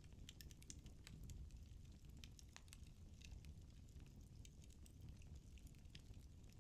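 Firewood burning in a fireplace, crackling faintly: scattered, irregular small pops and snaps over a low steady rumble.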